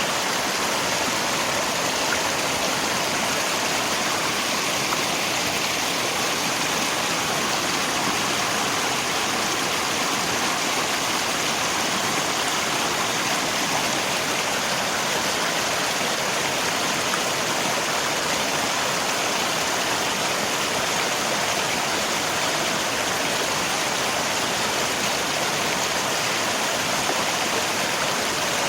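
Steady rush of rain together with a flowing river, an even unbroken wash of water noise.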